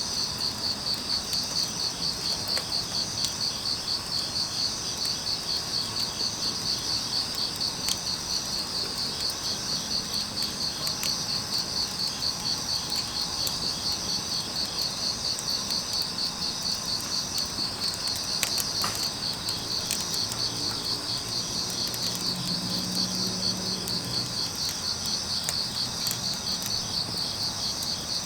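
Crickets chirping in a dense, evenly pulsing chorus, with a few sharp crackles from burning firewood.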